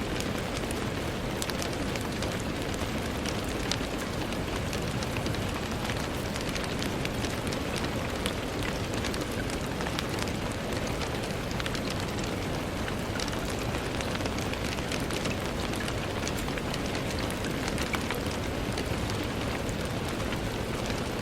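Steady rain falling on a window, an even hiss with many small drop ticks scattered through it.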